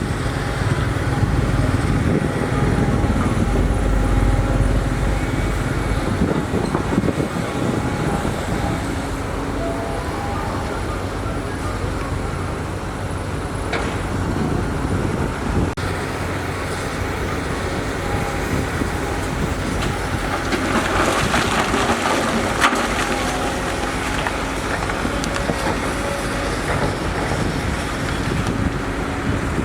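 Heavy diesel construction machinery running steadily. About twenty seconds in, a louder hissing, gritty noise rises for a few seconds, with a sharp knock in the middle of it.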